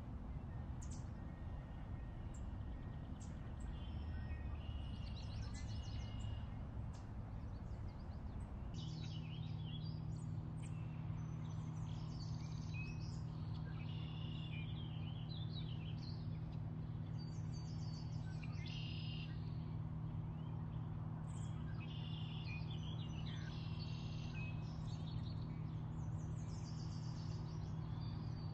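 Several small birds singing and chirping over a steady low background hum. The hum turns into a steadier droning tone about nine seconds in.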